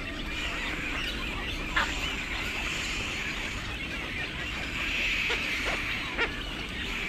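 Short, harsh, honking bird calls over a steady background haze, the two loudest about four seconds apart.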